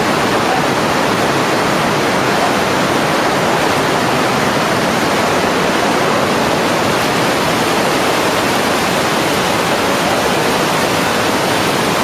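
The Karasu waterfall, water falling and rushing with a loud, steady, unbroken roar.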